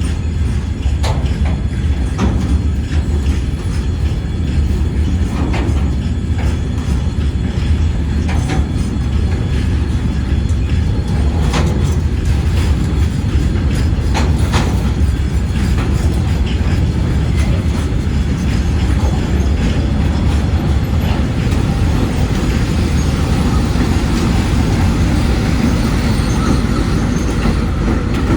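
ChME3 diesel-electric shunting locomotive running with a steady low engine drone as it pushes a string of railway wagons back, with scattered sharp clicks and knocks from wheels and couplings passing over the rail joints.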